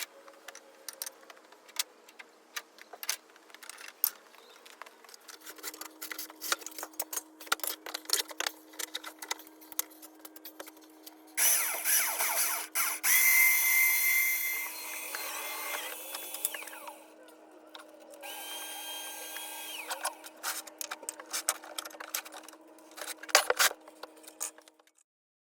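A power tool running in two spells: a louder one of about five seconds starting near the middle, its pitch shifting up and down, then a shorter, quieter one. Scattered clicks and knocks and a faint steady hum are heard throughout.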